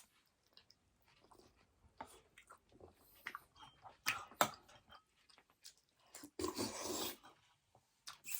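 Close-up eating sounds: chewing and biting, with scattered sharp clicks and a longer noisy stretch about six to seven seconds in.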